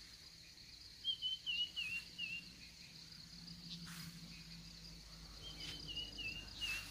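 A bird sings a short phrase of about six quick warbling chirps, twice, a few seconds apart, over a steady high drone of insects.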